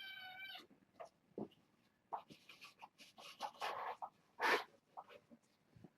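A kitten meows once, a long cry that ends about half a second in. After it come scattered rustles and knocks from handling, the loudest a short noisy burst about four and a half seconds in.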